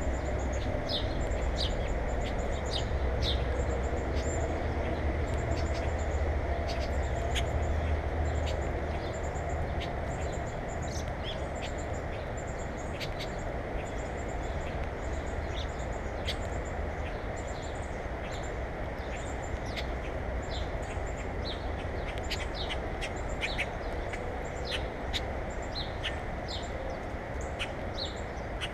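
Small birds chirping and calling over and over, short high notes and quick falling chirps, over a steady low background rumble that eases after about eight seconds.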